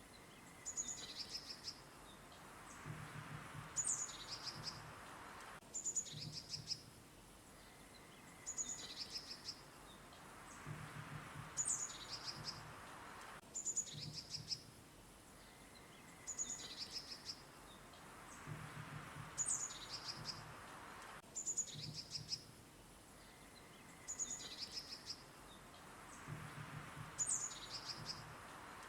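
Songbirds chirping in short, high, quick phrases over a soft hiss, with a low pulsing sound in between. The same few seconds of recording repeat about every eight seconds in a loop.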